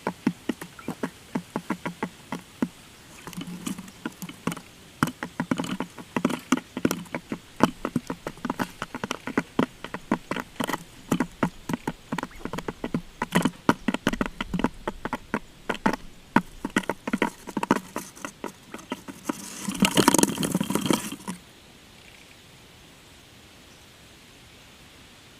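Birds making rapid, irregular tapping and clicking, with a louder, denser flurry about twenty seconds in that stops suddenly.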